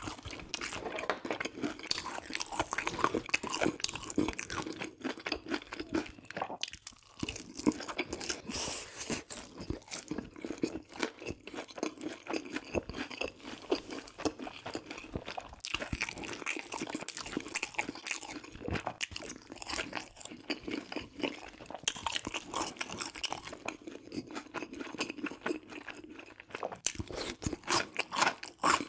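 Crispy fried chicken being bitten and chewed close to the microphone: a run of irregular crackling crunches with brief pauses between bites.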